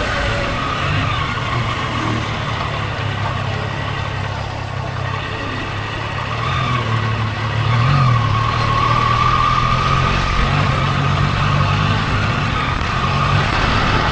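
Triumph Daytona 660's inline three-cylinder engine running steadily, getting louder about eight seconds in.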